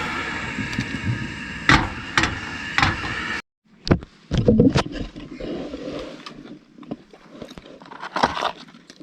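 4x4 vehicle driving on a rough bush track: a steady engine and drivetrain drone with a few sharp knocks and rattles. It cuts off abruptly about three seconds in, followed by scattered thumps and scraping.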